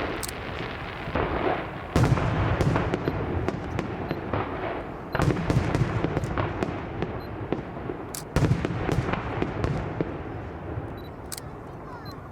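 Aerial fireworks bursting: three heavy booms about 2, 5 and 8 seconds in, each rumbling away, with sharp pops and crackling between them.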